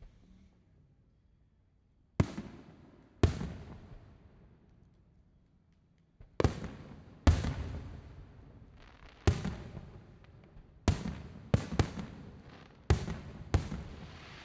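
Aerial fireworks shells bursting in an irregular volley: about ten sharp booms, each trailing off in a rolling echo, beginning about two seconds in and bunching closer together toward the end. A hiss builds near the end.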